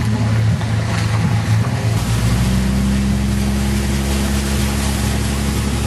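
Dodge Ram 2500's Cummins diesel engine running, with a steady hiss of noise over it. About two seconds in, the engine settles into a steady, even note.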